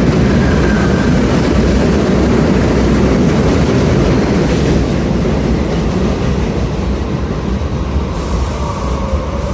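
New York City subway train of R68 cars arriving at the platform: a loud, steady rumble of wheels and running gear that eases off over the last few seconds as it slows.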